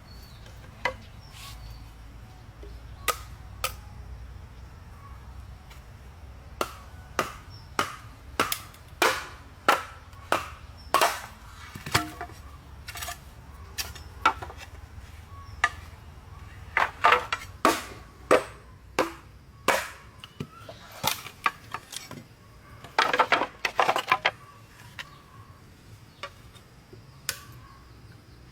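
Sharp, irregular chopping strikes, a few to several each second, bunching into quick clusters around the middle and about two-thirds through.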